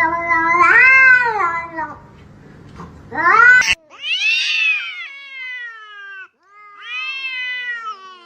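Domestic cat yowling: about four long, drawn-out meows, each rising then falling in pitch.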